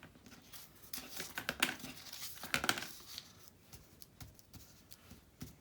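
Paper being handled and shuffled: rustling and crinkling of loose paper pieces, busiest in the first three seconds, then sparser.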